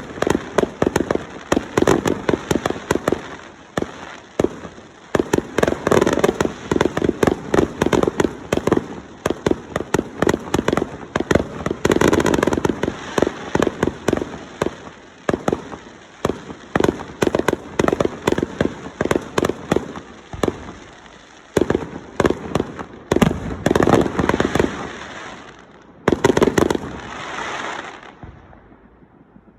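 Fireworks going off in a dense barrage of rapid sharp cracks and bangs, many a second, thinning out and fading away over the last few seconds.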